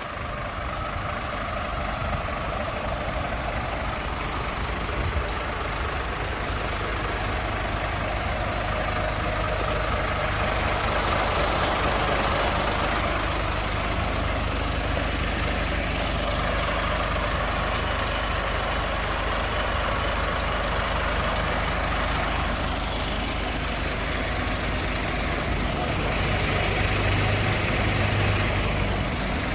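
Scania S500 tractor unit's 13-litre straight-six diesel engine idling steadily, getting a little louder and deeper near the end.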